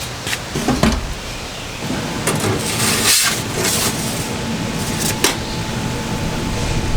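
Gusty wind buffeting the microphone, swelling around the middle, with several sharp clicks and knocks scattered through it.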